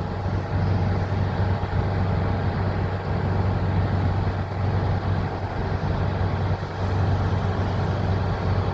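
Steady low engine drone with a constant hum, with no change in pitch.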